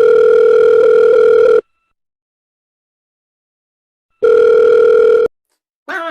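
Electronic beep tone, one steady pitch held for about two seconds, cut to dead silence, then repeated for about a second.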